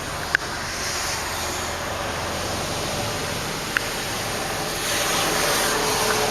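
Steady rushing background noise, like outdoor traffic or wind, with a few light clicks; it swells about five seconds in.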